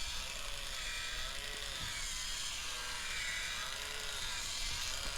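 A small battery motor in a toy dinosaur whirring steadily, with a faint rise and fall in pitch repeating about once a second.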